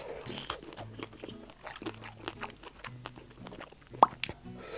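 Close-miked chewing and biting of a fried rice-noodle (guotiao) skewer: soft crunching with wet mouth clicks and smacks, and one sharp, louder click about four seconds in.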